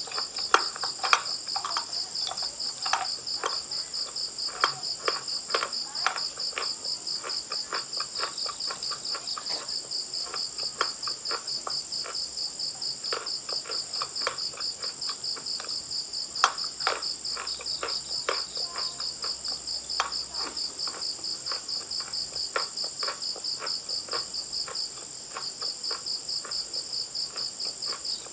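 A cricket chirping in a steady, evenly pulsed trill that falters briefly near the end. Irregular crisp crunching clicks come over it, thickest in the first few seconds, from chalk being bitten and chewed.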